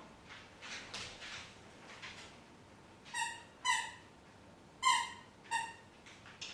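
Dogs at play: a few short breathy huffs, then four short, high-pitched yips in the second half.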